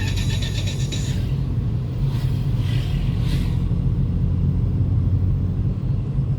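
Steady low rumble of a vehicle on the move, with hissing swells around two to three seconds in. Background music stops about a second in.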